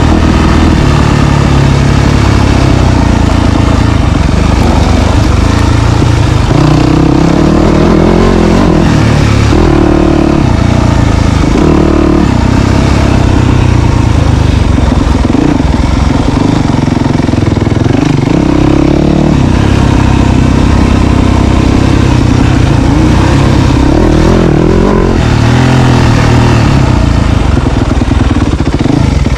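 Dirt bike engine being ridden hard, revving up and falling back again and again as the throttle is worked. Loud and continuous.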